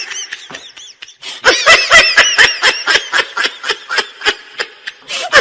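High-pitched laughter: a fast run of short laughing sounds, several a second, starting about a second and a half in after a few faint high calls.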